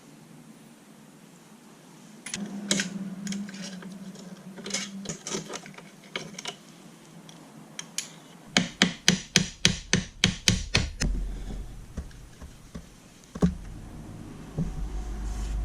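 Tools working on a Honda Monkey minibike while its engine is being removed: scraping and rubbing, then a quick run of about a dozen sharp knocks at about five a second, and one more knock near the end.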